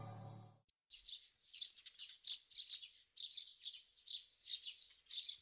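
Small birds chirping, a quick run of short high chirps, heard as background ambience. The end of the title music cuts off about half a second in.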